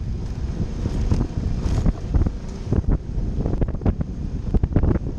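Wind buffeting the microphone over a Suzuki V-Strom motorcycle riding a dirt trail, with frequent short knocks and rattles from the bumpy ground.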